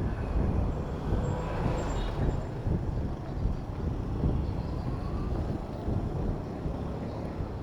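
City traffic heard from a moving bicycle: vehicles running close by over a steady low rumble, with a brief faint high-pitched squeal about two seconds in.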